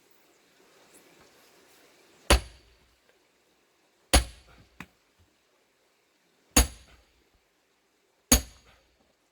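Four heavy blows striking into a plane-tree log to split it for firewood, each a sharp hit with a short metallic ring, spaced about two seconds apart.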